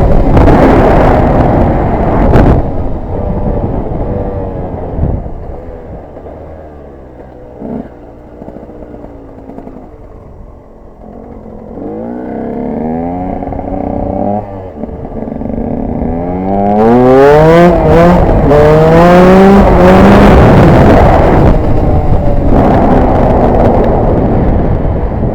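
KTM 125 EXC two-stroke single-cylinder engine running on an off-road ride. It is loud at first and drops away for several seconds. Then it climbs again in a series of rising revs, shifting up through the gears, loudest about two-thirds of the way through, and eases near the end.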